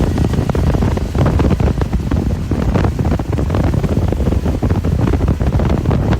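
Interior of a moving bus: a heavy, steady low rumble of engine and road, with a constant patter of quick rattles and knocks from the body and fittings.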